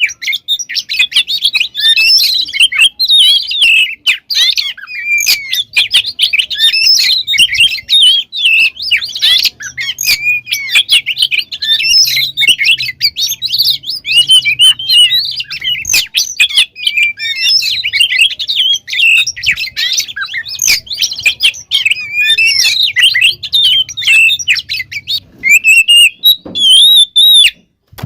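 Oriental magpie-robin (kacer) singing a continuous, rapid stream of varied chirps, trills and whistles, its song full of mimicked phrases. The song breaks off abruptly near the end.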